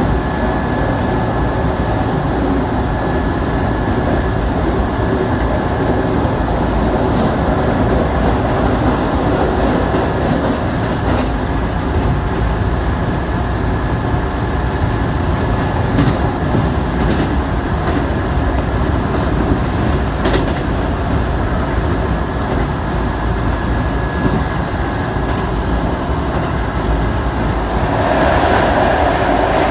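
Shibayama Railway 3500-series electric train running, heard from inside the car: a steady rumble of wheels on rail with a thin steady whine and a few scattered clicks. Near the end the running noise grows louder as the train enters a tunnel.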